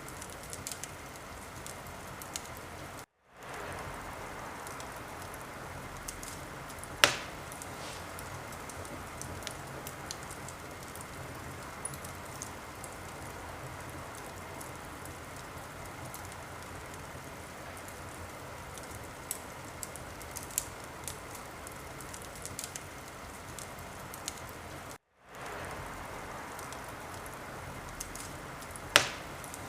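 Wood fire crackling: a steady hiss with frequent small crackles and two louder pops, about 7 seconds in and near the end. The sound cuts out completely for a moment twice.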